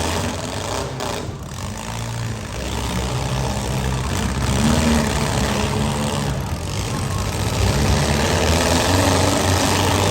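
Engines of compact demolition derby cars running and revving, their pitch rising and falling over a constant mechanical din.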